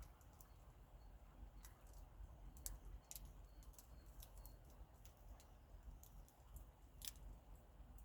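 Campfire wood crackling faintly: irregular sharp pops, about a dozen in all, the loudest about seven seconds in.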